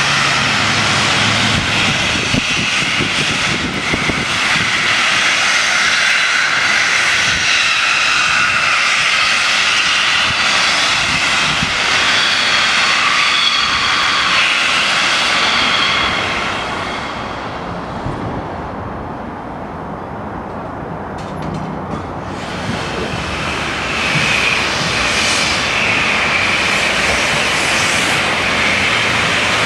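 Steam hissing loudly and steadily from the LNER Peppercorn A1 steam locomotive Tornado. The hiss eases off for a few seconds about two-thirds of the way through, then comes back.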